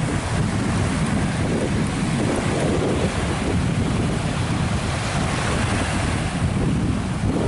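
Steady wind buffeting the microphone over rushing sea water and surf.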